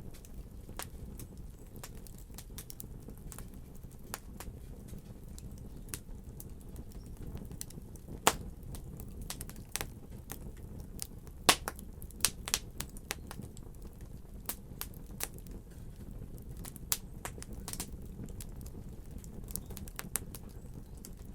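Wood fire burning in a fireplace: a steady low rumble of flames with irregular crackles and snaps, two sharp pops standing out about 8 and 11 seconds in.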